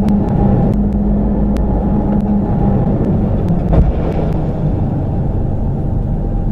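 Steady low rumble of a car driving, engine drone and road noise, with a few light clicks and a brief knock about four seconds in.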